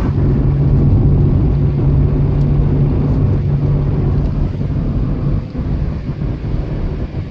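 Car cabin noise while driving: a steady low rumble of engine and tyres on the road, with a steady low hum that drops away about four and a half seconds in.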